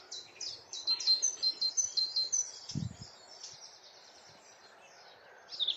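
Blackcap singing: a fast run of bright, repeated warbling notes that stops about three and a half seconds in, then starts again near the end. A soft low thump sounds about three seconds in.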